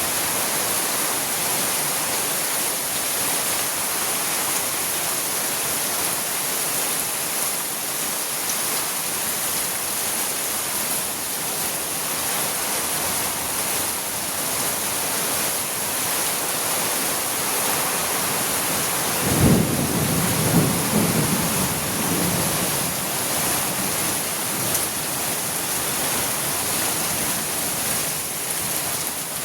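Heavy, steady rain pouring down. About two-thirds of the way through there is a sudden crack of thunder that rumbles on for two or three seconds.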